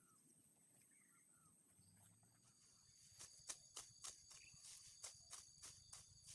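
Sickle cutting through grass: faint, starting about halfway through, then a quick even run of crisp strokes at about three a second.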